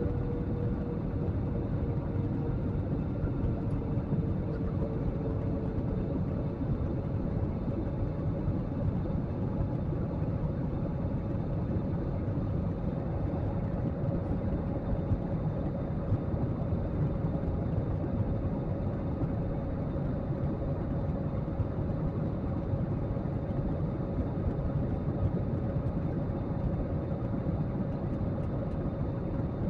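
Steady cabin noise of a jet airliner in flight: engine and airflow noise heard from inside the passenger cabin, with a faint hum whose pitch dips slightly in the first few seconds and then holds steady.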